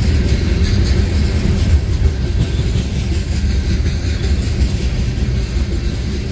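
Freight train of covered hopper cars rolling past close by: a steady, loud low rumble of steel wheels on rail, with a few sharper clicks in the first two seconds.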